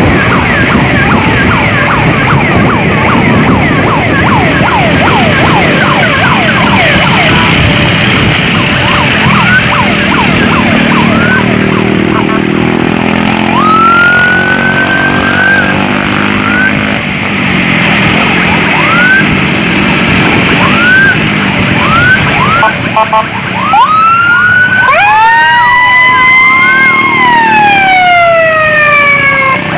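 Loud electronic emergency sirens on an escort run: quick rising whoops repeating, a slower rising sweep about halfway, and a long wail that rises and then slowly falls near the end, over steady traffic and engine noise.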